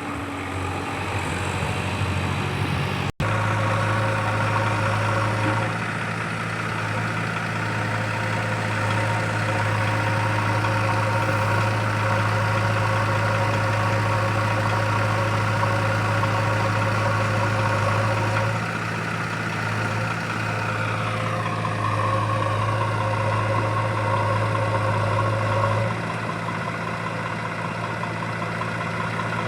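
Heavy diesel engine running steadily, its note shifting a few times, with a momentary break about three seconds in.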